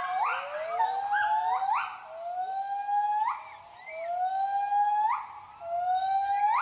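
A family of white-handed gibbons giving their territorial hooting call: a series of rising whoops, each climbing to a sharp upward flourish, about one a second, with two voices overlapping at the start.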